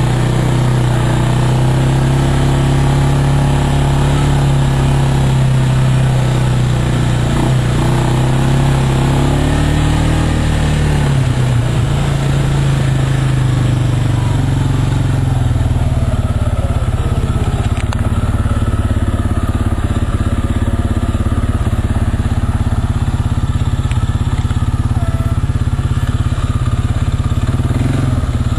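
Off-road vehicle's engine running continuously while under way. Its note wavers and shifts lower about ten to twelve seconds in.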